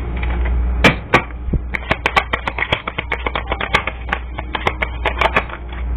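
Rapid, irregular clicking and tapping, several clicks a second, starting about a second in and stopping shortly before the end, over a steady low hum.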